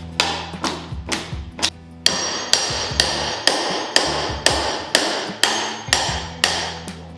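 Hammer blows struck in a steady run, about two a second, each with a short ring, as nails and plywood subfloor are worked loose.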